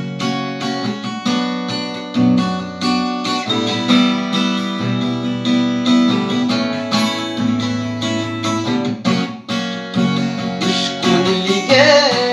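Acoustic guitar strumming and picking chords as a song's introduction. A singing voice starts to come in near the end.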